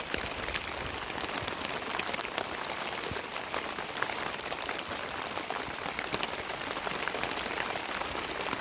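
Heavy rain falling steadily, a dense even hiss with many separate drops ticking sharply on a hard surface.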